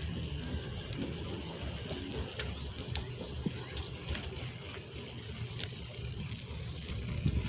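Bicycle riding along: a steady low rumble of road and wind noise, with scattered light clicks and rattles from the bike.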